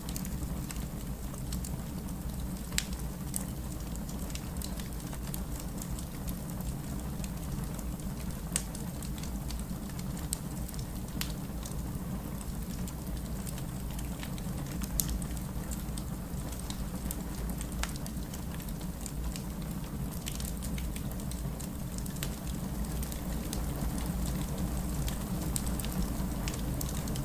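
Wood fire burning in a fireplace: a steady low rumble and hiss from the flames, with scattered sharp crackles and pops.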